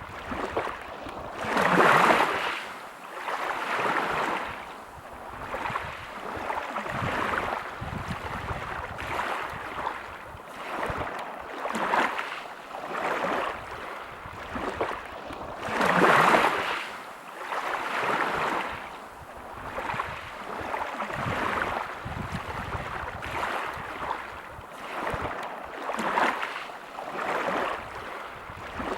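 Waves breaking over a pebble beach, coming in surges every couple of seconds, loudest about two seconds in and again about sixteen seconds in.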